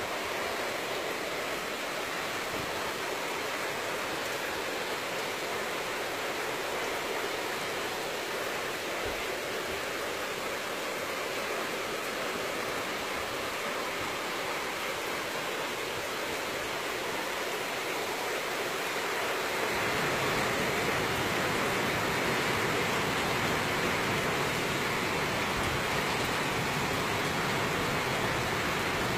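Heavy rain pouring down on the street and trees, a steady hiss that grows louder and deeper about two-thirds of the way in.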